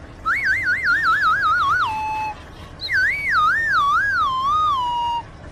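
Comic whistle sound effect: a wobbling tone that slides downward in pitch, played twice, a quick wobble first and then a slower, wider one about three seconds in.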